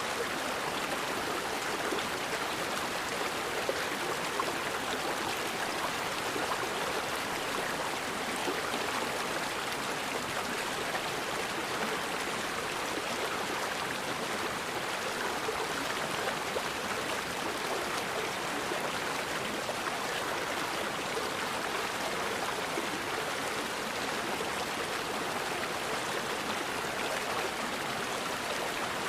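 Forest river flowing steadily, an even rush of water.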